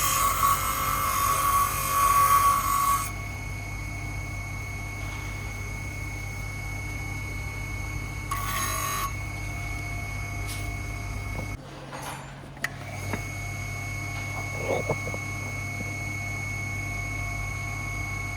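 A power tool's motor running steadily, with spells of grinding or sanding against the workpiece: a long one at the start and a short one about eight seconds in. The motor hum cuts out for about a second midway.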